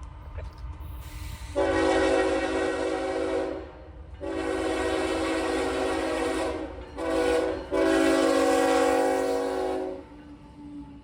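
Locomotive air horn blowing the grade-crossing signal, long, long, short, long, with several tones sounding together as a chord, over the low rumble of the passing train.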